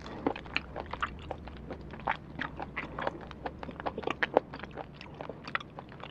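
Close-miked chewing of a mouthful of food: irregular small wet crunches and mouth clicks, several a second.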